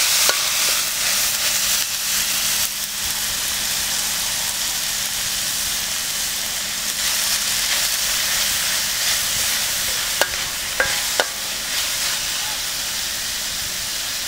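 Small pieces of meat sizzling in hot oil in an aluminium wok, stirred with a metal spatula that scrapes and taps against the pan a few times about ten to eleven seconds in.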